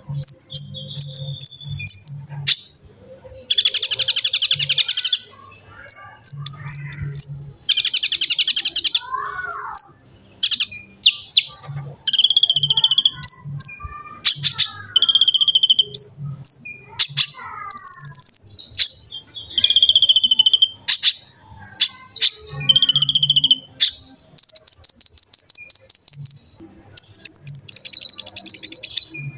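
Kolibri ninja (purple-throated sunbird) singing: quick runs of sharp, high chirps broken by fast, buzzy trills, the longest near the end.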